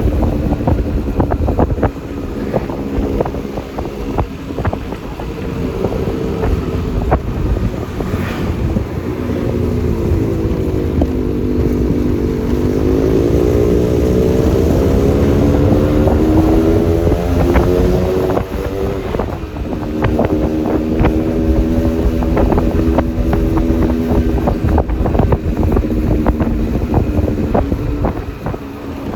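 Yamaha Lexi LX 155 scooter's single-cylinder engine running at road speed, with wind buffeting the microphone and road noise. The engine note sags about a third of the way in, then climbs steadily back up before settling.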